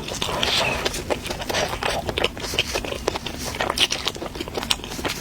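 Crunching as a crispy air-fried chicken-thigh roll is bitten and chewed close to the microphone: a run of irregular sharp crackles.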